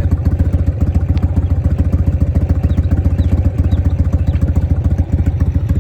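1988 Harley-Davidson Softail's Evolution V-twin engine running steadily with a fast, even low pulse.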